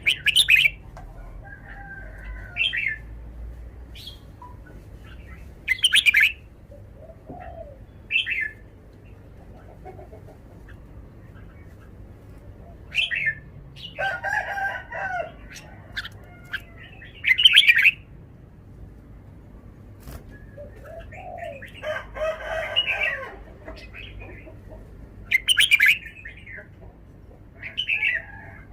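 Red-whiskered bulbul singing: short, loud, bright phrases repeated every two to three seconds, with two longer, lower, more jumbled calls around the middle and later on.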